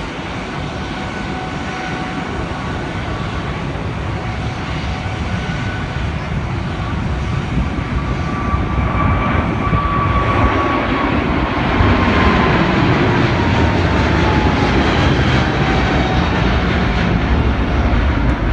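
Boeing 777-300ER's twin GE90-115B turbofans at takeoff power, a heavy jet roar that grows steadily louder. Partway through, a whine in the engine noise slides down in pitch as the airliner passes.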